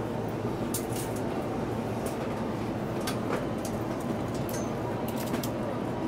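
Interior sound of a JR E233-series electric train car: a steady rumble with several sharp clicks scattered through it.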